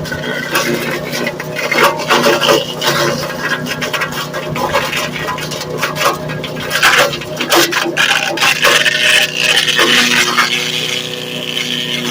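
Small wood chipper running with a steady motor hum while branches are fed through, the cutter breaking them up in a dense, irregular crackle of wood chips.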